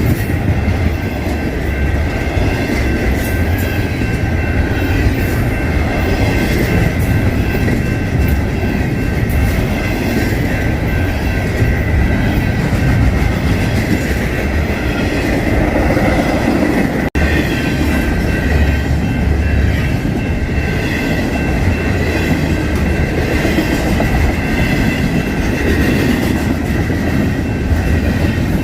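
BNSF double-stack intermodal freight train rolling past at track side: a steady heavy rumble with wheel clatter over the rails and a steady high-pitched ringing from the wheels over it.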